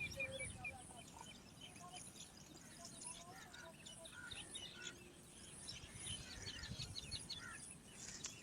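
A flock of small birds chirping faintly, with many short, quick overlapping calls.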